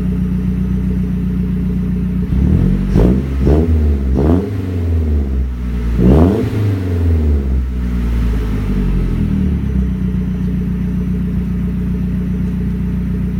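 Turbocharged Mazdaspeed four-cylinder running through a Magnaflow turbo-back exhaust with a catted downpipe: idling, then revved in four quick throttle blips to about 3,000–3,500 rpm, the last the loudest, before settling back to a steady idle.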